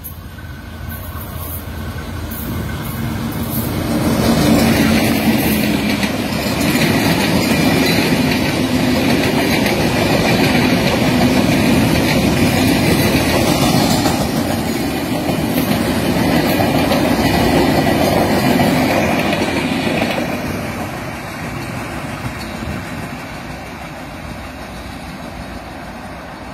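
Ponchogarh Express, a diesel-hauled passenger train, running through the station at speed without stopping. The rumble of the locomotive and coaches builds over the first few seconds, stays loud for about sixteen seconds as the train goes by, then fades away.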